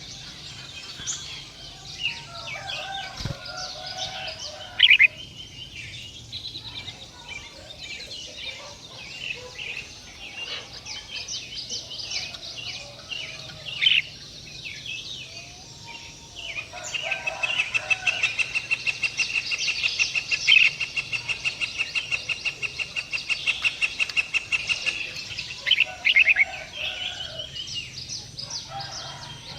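Birds chirping: scattered short chirps and calls, then about halfway through a long run of quick, evenly repeated chirps, about five a second, lasting some nine seconds.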